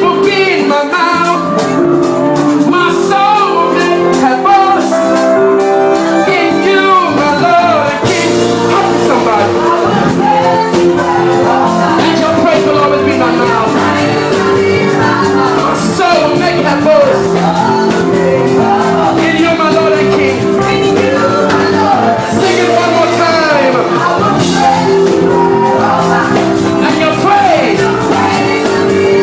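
Live gospel band music with singing: held chords, wavering vocal lines and a steady drum beat.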